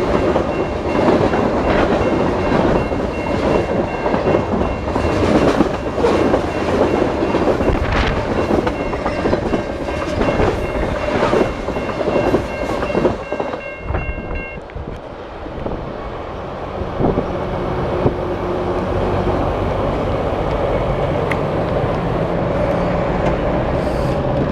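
CN train passing close by: rumbling wheels and clacking rails, with a steady high whine over the noise for about the first half. About fourteen seconds in, the clatter and whine stop, leaving a steadier, lower hum.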